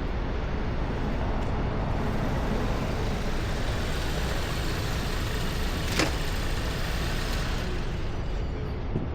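Steady vehicle and road noise, with a sharp click about six seconds in and a smaller one near the end.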